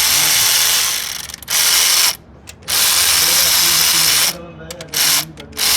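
A compressed-air tool in a car workshop, run in three bursts of one to two seconds each with a sharp hissing start and stop.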